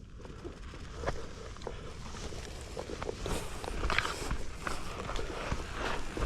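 Footsteps on a rough trail, an irregular run of crunching and crackling steps that grows louder toward the end.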